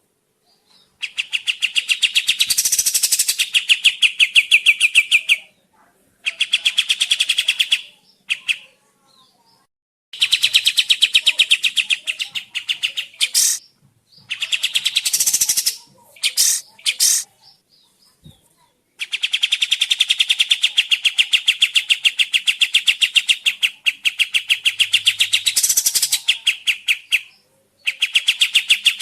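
Kapas tembak songbird singing: long, rapid strings of quickly repeated chattering notes, several seconds at a time, broken by short pauses, with a few brief single calls between phrases.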